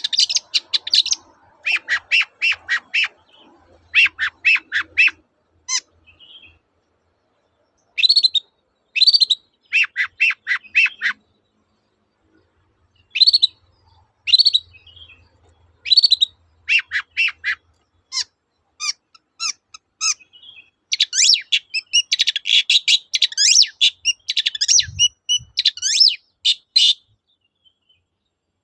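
Long-tailed shrike (cendet) singing in short bursts of rapid, repeated harsh notes with pauses between them, then a dense unbroken run of chattering late on. A brief low thump sounds near the end.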